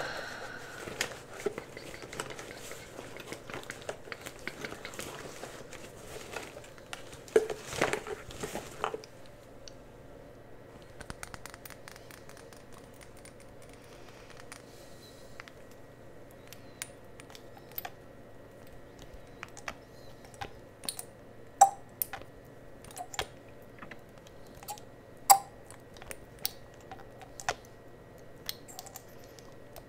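Cosmetic products and their containers being handled: rustling and scraping for the first several seconds, then scattered light clicks and taps, two of them sharper, over a faint steady hum.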